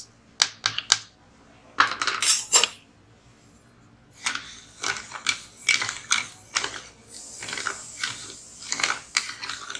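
A spoon stirring sugar into a cup of milk, clinking against the cup. A few sharp clinks come first, then after a short pause a steady run of clinks about twice a second.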